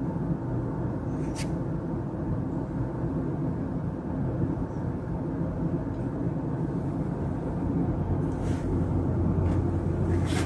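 Steady low rumble with a faint hum in it, and a few short ticks about a second in and again near the end.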